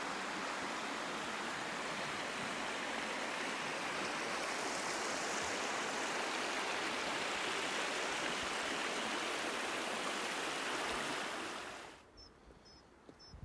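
Rushing water of a stream or waterfall, a steady even hiss that cuts off abruptly about twelve seconds in, leaving faint high chirps.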